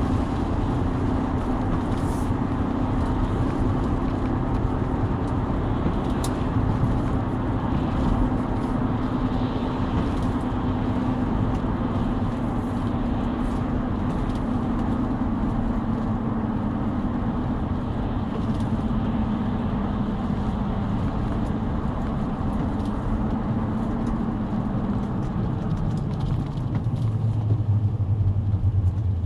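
2004 Chrysler 300M driving: steady road noise, most of it from its deformed tyres, with a drone that slowly falls in pitch. In the last few seconds a lower, louder hum comes in.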